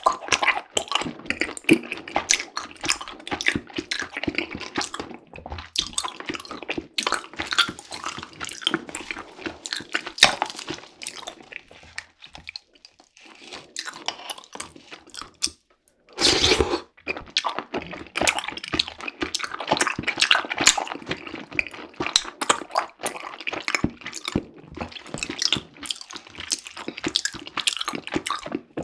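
Close-miked wet chewing and squelching of chewy tapioca pearls, a dense run of small sticky clicks and smacks. It quiets for a few seconds past the middle, then a short louder wet burst.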